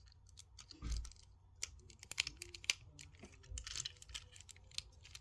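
Irregular small plastic clicks and clacks from a Transformers War for Cybertron Ratchet action figure being handled and transformed, its joints and panels snapping into place. A duller knock comes about a second in.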